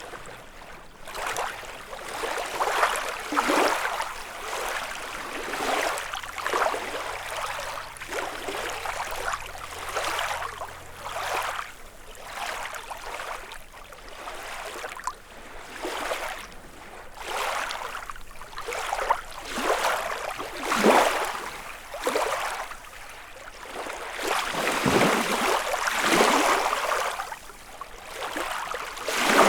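Small lake waves lapping and splashing against the shore, one wash every second or two, rising and falling in strength.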